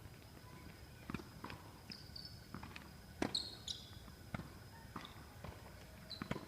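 Tennis balls being struck by rackets and bouncing on the court during a rally: a run of sharp, irregular knocks about half a second to a second apart, the loudest about three seconds in.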